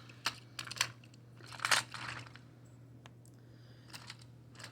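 Small plastic push-along toy engine and car being handled and coupled: a few sharp plastic clicks, then a louder rustling scrape a little under two seconds in, and a couple of faint ticks near the end.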